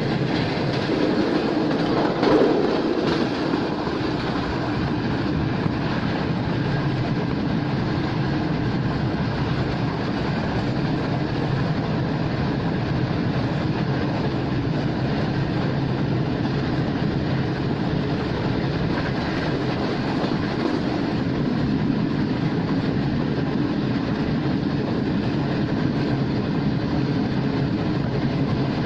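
Steady rolling noise of a passenger coach speeding up from about 100 to 120 km/h, wheels running on the rails, heard from inside the coach. There is a brief louder clatter about two seconds in.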